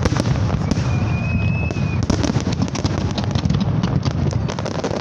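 Aerial fireworks display: a dense, continuous barrage of shells bursting and crackling, with a short high whistle about a second in.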